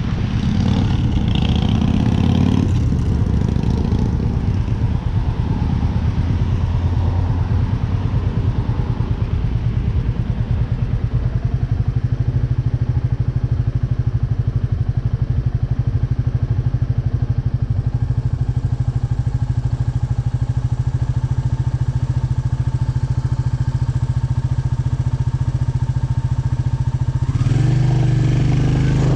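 Royal Enfield Meteor 350's single-cylinder engine idling steadily at a constant pitch, then revving up as the bike pulls away near the end.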